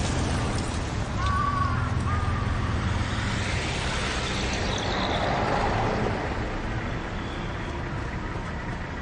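City road traffic: vehicle engines running steadily, with one vehicle passing by around the middle. A few short high chirps come about a second in.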